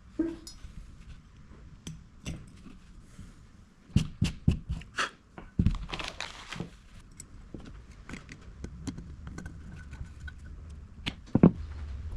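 Scattered clicks and knocks of small hard parts being handled and set down, with a cluster of sharper knocks about four seconds in, a short hiss lasting about a second near the middle, and one loud knock near the end.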